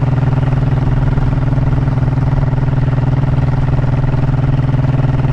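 Honda motorcycle engine running at a steady, unchanging pitch under the rider, holding one speed.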